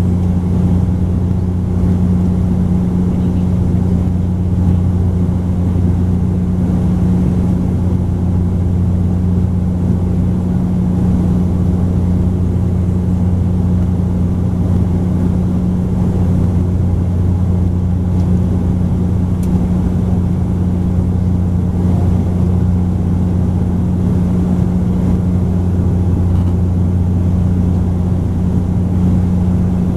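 Bombardier Dash 8 Q400 turboprop cabin drone in flight, heard from inside the cabin: a loud, steady propeller hum with a low tone and a second tone an octave above, over an even rumble.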